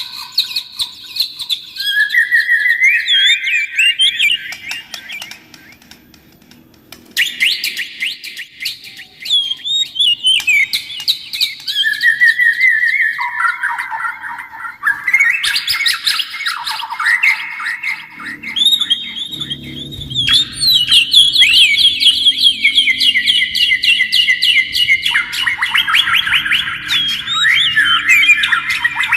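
Songbird singing long, varied phrases of rapid trills, chirps and whistles, broken by a short silence about six seconds in.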